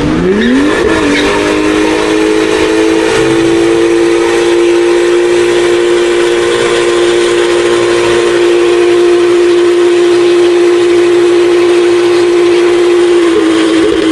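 A car engine revving up in the first second, then held at one high pitch for about thirteen seconds over a loud hiss of spinning tyres, as in a burnout; the note wavers and drops off near the end.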